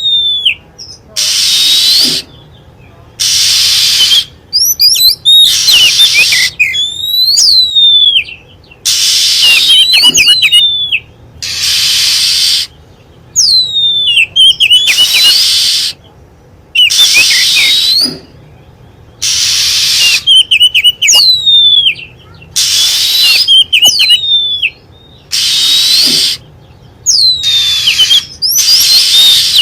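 Recorded Oriental magpie-robin song, played as a bird lure call: about a dozen loud phrases, each roughly a second long with short gaps between. Each phrase mixes sharp up-and-down whistles with a harsh, hissy rasp.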